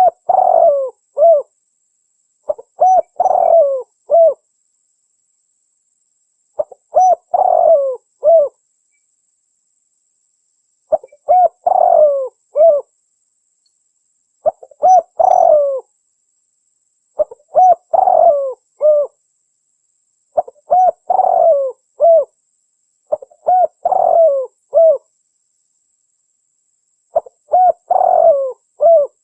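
Spotted dove calling: a short phrase of several coos, repeated every three to four seconds with silence between. It is a recorded lure call for trapping wild spotted doves.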